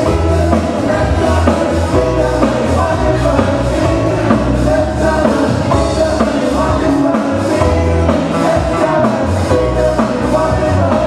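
Live band music: a song with a moving bass line under guitar and other instruments, playing continuously at a steady level.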